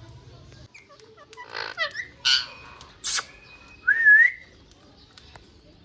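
Pet parrot calling: a few harsh squawks in quick succession, then one short rising whistle.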